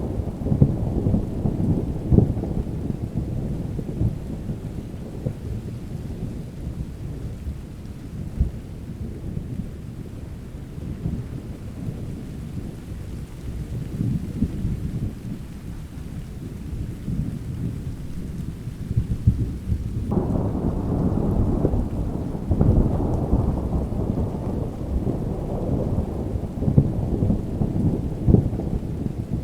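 Steady rain with continuous rolling thunder. About two-thirds of the way in, a fresh, louder thunder rumble starts suddenly and carries on to the end.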